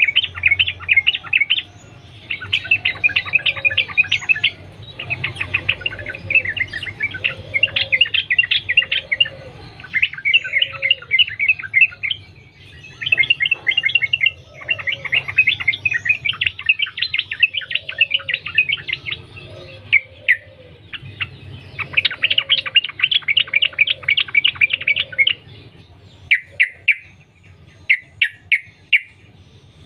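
Yellow-vented bulbul singing an unbroken run of rapid chirping notes in phrases of one to three seconds with short gaps between them. Near the end the song thins to a few single notes.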